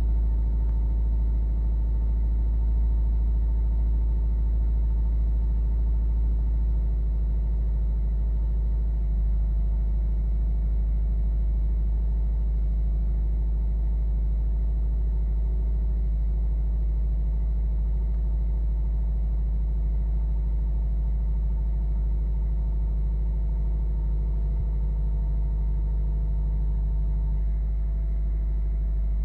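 Subaru Impreza WRX STI ts Type RA's 2.0-litre turbocharged flat-four engine idling steadily after start-up.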